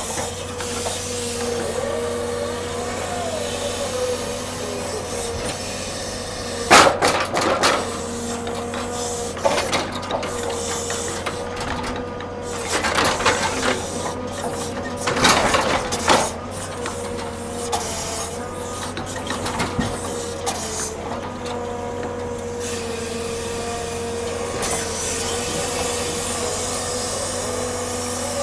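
Log-unloading machinery running with a steady, slightly wavering whine, broken by a few loud knocks and clattering from the logs being handled.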